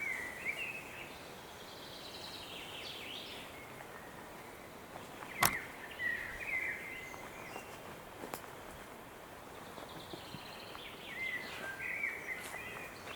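Songbirds singing in a forest in early summer, short warbling phrases coming and going over a steady background hiss. A sharp click about five and a half seconds in is the loudest sound, with a fainter one a few seconds later.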